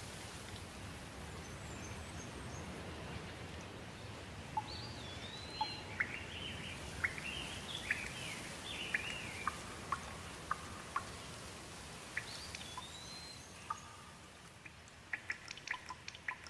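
Steady rain with songbirds singing over it: a run of quick whistled phrases that glide up and down in the middle, a shorter burst a little later, and a patter of sharp drips near the end.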